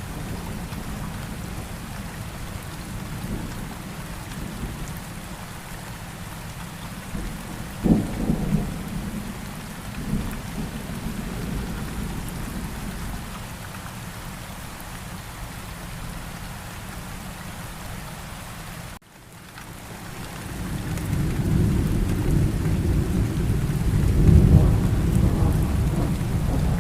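Steady rain with thunder. A sharp thunderclap comes about eight seconds in, and a long rolling rumble builds through the second half after the sound cuts out for a moment.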